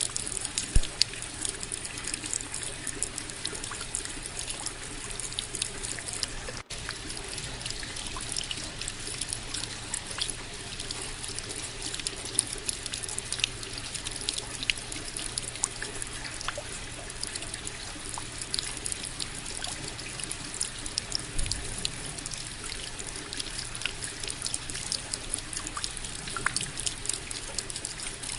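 Steady rain falling, a dense even hiss full of small close drops ticking. A split-second dropout about six and a half seconds in.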